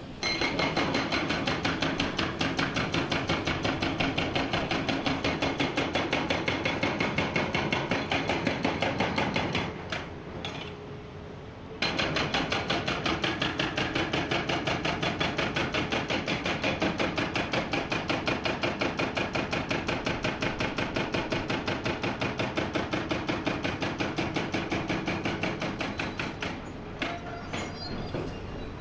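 Hydraulic hammer on a Komatsu PC490 excavator breaking rock, a rapid steady rattle of blows, about eight to ten a second. It stops for about two seconds while the excavator's engine runs on, then starts again and hammers on until near the end.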